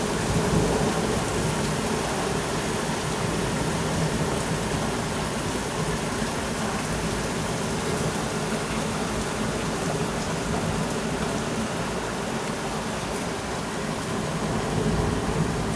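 Heavy thunderstorm rain pouring down in a steady, dense downpour.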